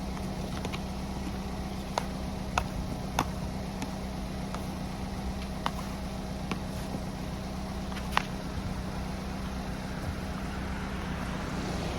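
Chevy engine idling steadily just after a cold start in the snow, with a handful of short, sharp clicks scattered through it.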